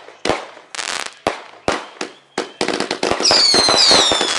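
Fireworks going off: separate sharp bangs at first, then from about two and a half seconds in a dense, rapid crackle of bursts. Near the end there are falling whistles.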